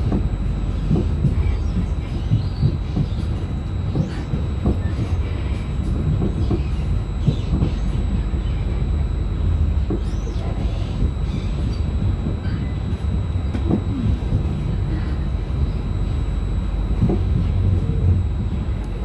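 Inside a Trenitalia double-deck regional train carriage rolling slowly over station pointwork: a steady low rumble with irregular wheel knocks over the rail joints and switches, and faint wheel squeal now and then.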